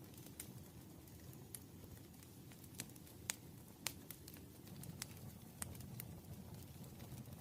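Wood campfire crackling: irregular sharp pops and snaps, a couple louder than the rest just past the middle, over a low steady rumble of the burning fire.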